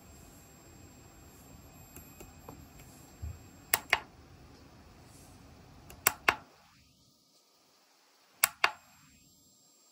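Push-button switch on an INGCO CWLI20258 20 V LED work light clicking three times, each press a quick double click as the button goes down and comes back up, about two seconds apart. A faint steady high tone lies under it.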